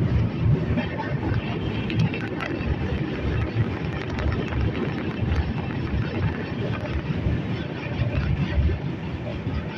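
Moving express passenger train: a steady, uneven rumble of wheels on the track mixed with wind noise.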